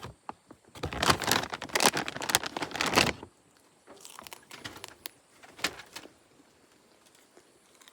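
Dense crinkling and crackling handling noise lasts about two and a half seconds, followed by a few faint clicks.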